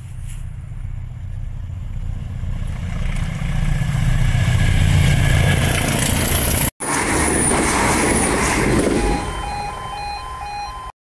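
Diesel locomotives hauling a train, their engines rumbling and growing louder as it approaches and passes. Near the end a level crossing alarm sounds as a run of short beeps alternating between two pitches.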